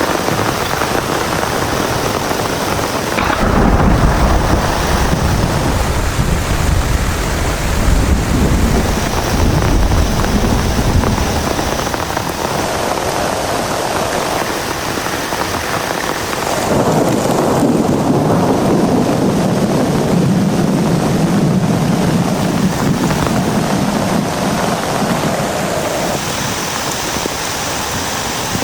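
Heavy rain falling steadily, with a long low rumble of thunder starting about three seconds in and a second rolling rumble of thunder a little past halfway.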